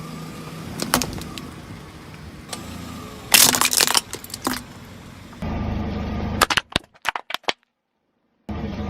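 Something brittle being crushed, cracking and snapping, with one loud crunching spell about three seconds in and a quick run of snaps later on. A steady low hum comes in about halfway through, and near the end the sound cuts to dead silence before starting again.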